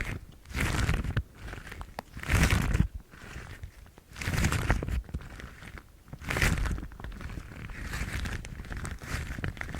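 Yellow household rubber gloves rubbed and crinkled by hands close to the microphone, swelling in rustling strokes about every two seconds, then lighter, continuous rustling with small ticks over the last few seconds.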